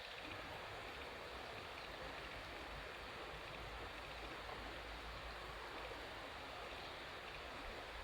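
Campfire burning with a steady hiss, over a faint low rumble.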